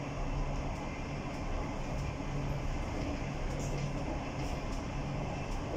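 Passenger train running steadily along the track, heard from inside the last car: an even rumble of wheels on rails with a steady low hum.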